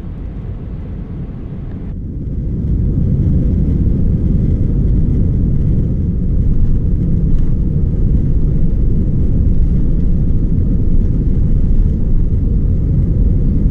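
Airbus A320 heard from the cabin on its takeoff roll: a heavy, steady low rumble of engines at takeoff power and wheels on the runway, growing louder about two seconds in as thrust comes up.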